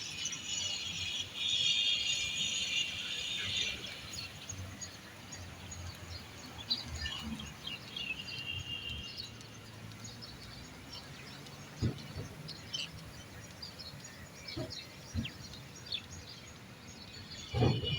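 Birds chirping and calling in a dense chorus for the first few seconds, then scattered chirps over a faint outdoor background. A few short low thuds come in the second half, the loudest near the end.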